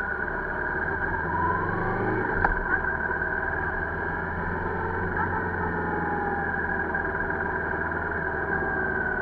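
Motorcycle engine running steadily at low road speed, its pitch drifting gently up and down with the throttle, and one short knock about two and a half seconds in.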